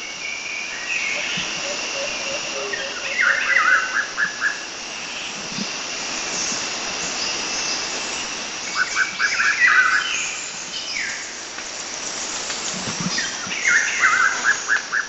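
Forest birdsong: one bird repeats a short phrase ending in a quick run of notes about every five seconds, with other birds calling higher up, over a steady background noise.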